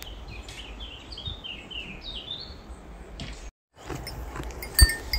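A songbird singing a quick run of short, falling chirps over a low outdoor rumble. After a brief dropout, there is a single thump and some faint metallic tinkling.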